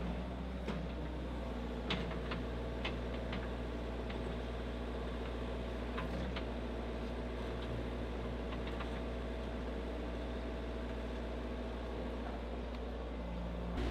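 A steady low engine hum with a few faint clicks.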